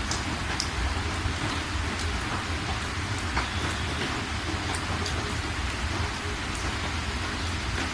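Steady rain falling on a surface, with single drops ticking through it and a low rumble underneath.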